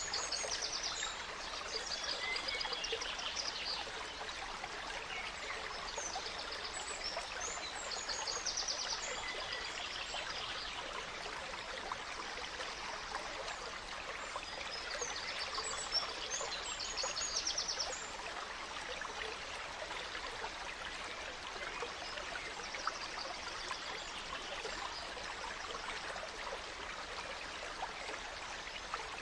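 Gentle stream running steadily, with songbirds singing quick trills and chirps over it in several bursts during the first half, fainter afterwards.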